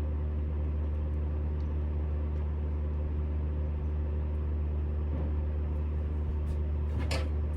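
Smithy CB-1220XL 3-in-1 lathe running, a steady, even machine hum at one pitch, with a short knock near the end.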